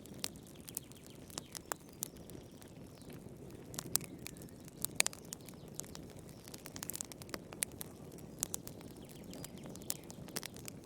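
Wood fire crackling in a fireplace: irregular sharp pops and snaps over a low, steady rumble of the flames, with the loudest pops about four and five seconds in.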